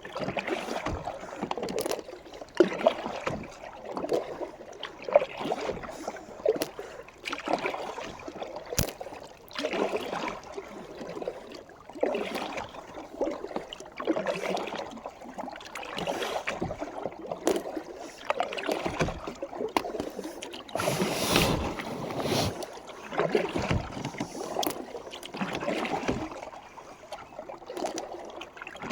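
A kayak being paddled: water splashes and swirls with each paddle stroke, in an even rhythm of about one stroke every one and a half to two seconds, with a few sharp knocks along the way.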